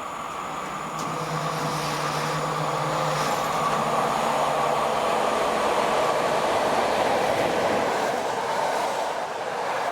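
Train passing along the line, the rumble of its wheels on the rails growing louder to a peak in the middle and easing off near the end, with a low steady hum in the first half.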